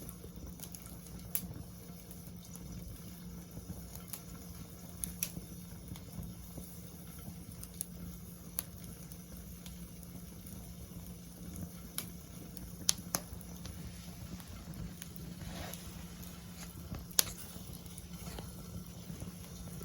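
Wood fire crackling, with irregular sharp pops, a few of them loud, over a soft hiss and a steady low hum.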